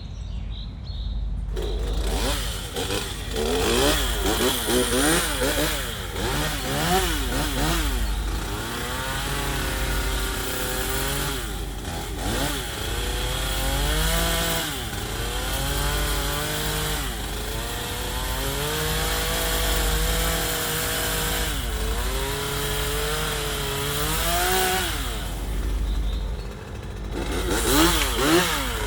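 Chainsaw cutting into a wooden log for carving, its engine revving up and down again and again as the throttle is worked. It comes in about a second and a half in and drops back briefly near the end.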